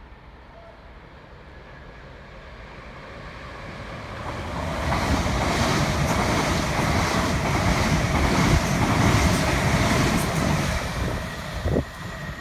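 Eight-car Class 357 Electrostar electric train passing through the station at speed without stopping: a rush of wheel and air noise builds over about five seconds, stays loud for about six, then falls away, with a short knock near the end.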